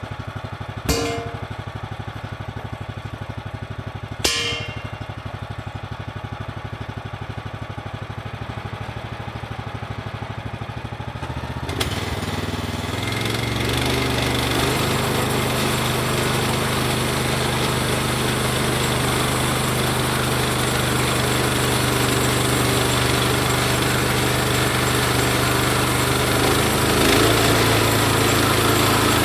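An engine running steadily, with two sharp knocks in the first few seconds; about twelve seconds in it grows louder and stays louder, as if put under more throttle or load.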